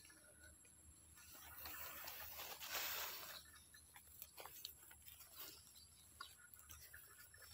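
Faint rustling that swells for about two seconds, then scattered light clicks and ticks, over a steady high thin drone.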